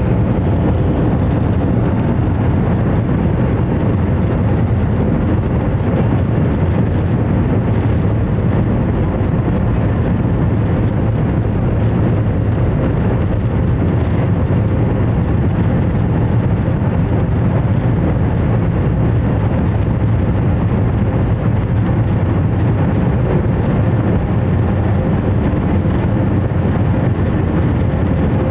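Boeing 737-500's CFM56 jet engines running, a constant low rumble that holds steady with no rise in pitch or level.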